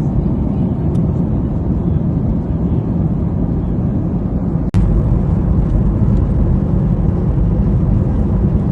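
Steady cabin noise inside an airplane in flight: a low, even rush of engines and airflow. About halfway through it cuts out for an instant and comes back slightly louder.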